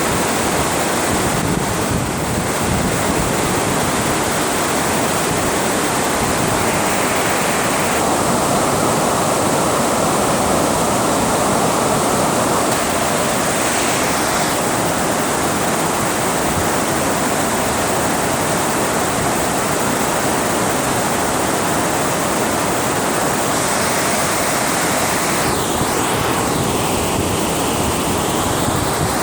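Water rushing over a dam in a steady, loud roar of noise.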